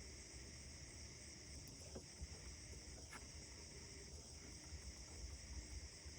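Faint outdoor dawn ambience: a steady, high-pitched insect drone like crickets, over a low rumble, with a couple of faint ticks about two and three seconds in.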